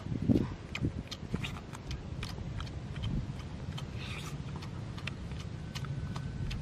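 Close eating sounds: chewing and lip-smacking on cooked eel, with many small wet clicks, over a steady low rumble. A dull thump comes right at the start.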